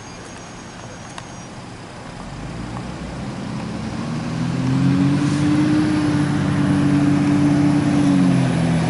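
Motor vehicle engine growing louder over several seconds as it draws near, then running loudly and steadily close by, its note rising a little and dropping slightly near the end.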